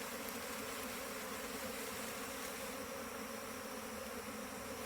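A swarm of honeybees buzzing in a steady, even hum.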